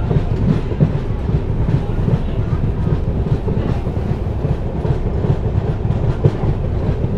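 Passenger train coaches running at speed, heard from an open coach window: a loud, steady rumble of wheels on the rails with irregular clicks and clatter.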